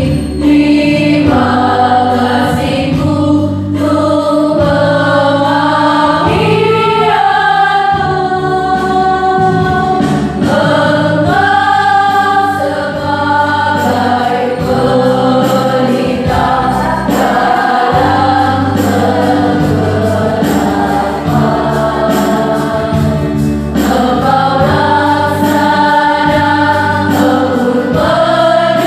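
Choir singing a song, moving through a melody of held notes about a second or two each.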